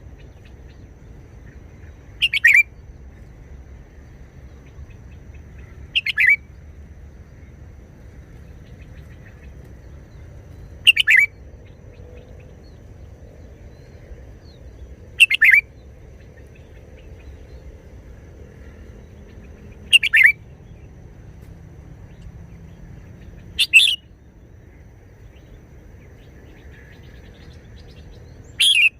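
Red-whiskered bulbul singing short, loud whistled phrases, one every four seconds or so, seven in all.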